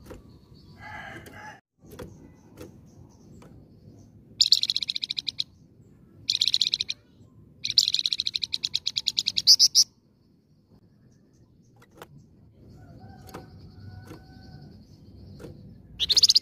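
Flamboyan bird singing: loud, fast rattling trills of rapidly repeated high notes, delivered in four separate bursts, with a short lower warble near the start and a few faint whistled notes between the bursts.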